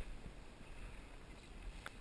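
Quiet ambience of a drifting kayak: faint water and wind rumble on the microphone, with two small sharp clicks, one at the start and one near the end.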